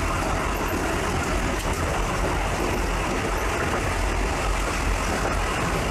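Steady running noise of a moving Tamsui line passenger train, a low rumble under an even rushing noise.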